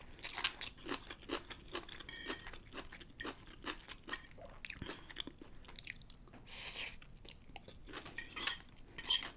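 Close-miked chewing of pancit bihon, stir-fried rice noodles with pork, with many irregular wet mouth clicks and crunches.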